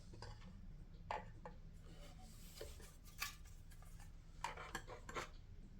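Faint scattered clicks and light taps of plastic center-console parts being handled and fitted together, over a low steady hum.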